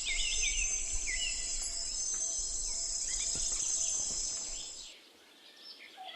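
Outdoor nature ambience: insects trilling steadily at a high pitch while small birds chirp over them. It fades out about five seconds in.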